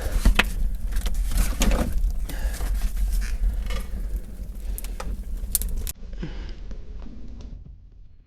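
Fire of dry bark and plastic bags crackling as it catches in a fireplace, with many sharp pops over a low steady rumble. About six seconds in the sound cuts off suddenly to a quieter, duller stretch.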